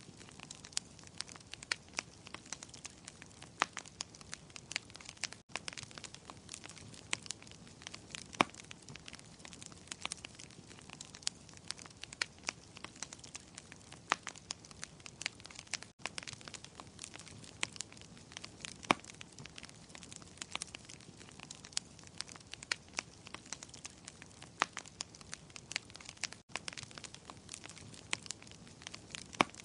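Wood fire in a fireplace crackling, with irregular sharp pops over a steady low hiss. The sound drops out for an instant three times.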